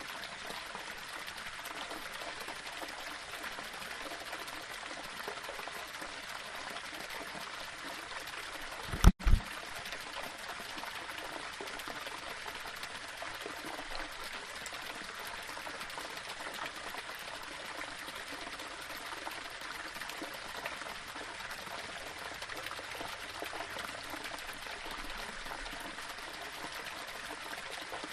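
Small waterfall running steadily over rocks, an even splashing rush. About nine seconds in, a momentary dropout and a brief, loud low double thump break the flow.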